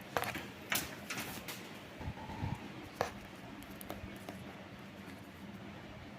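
Sogo industrial ceiling fan running with a faint steady hum, with several sharp clicks and knocks in the first three seconds.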